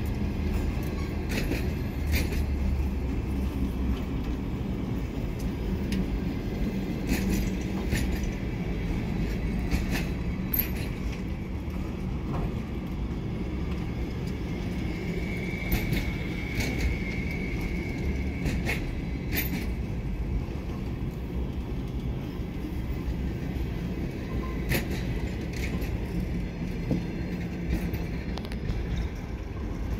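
Passenger coaches of a long-distance train rolling past an arrival platform: a steady low rumble with scattered sharp clicks from the wheels on the track, and a brief squeal about halfway through.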